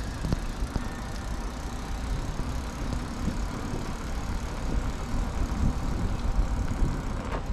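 Easyride Mini Monster folding electric bike being ridden: a steady low rumble of tyres and wind, with a faint steady whine from its 36V 250W hub motor and occasional small knocks from the road.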